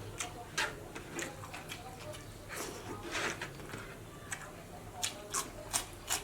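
Close-up chewing and lip-smacking of someone eating fatty pork curry: a string of sharp, irregular wet mouth clicks, bunched near the end.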